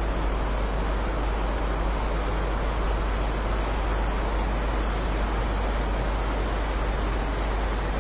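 Heavy rain as a steady, even hiss with no single drops standing out, over a low rumble.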